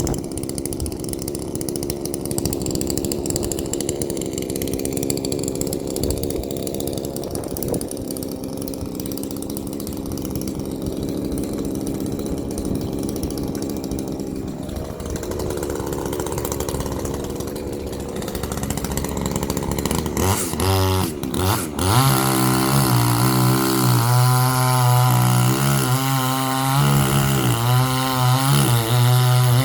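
Gasoline chainsaw idling steadily for about twenty seconds, then revving twice and running at full throttle, its pitch wavering under load as it cuts into an oak log; it drops back near the end.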